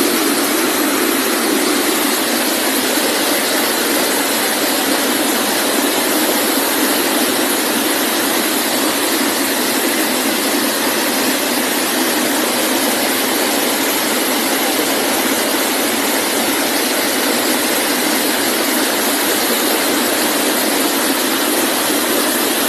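A steady, even hiss of noise with no deep bass and no change in level.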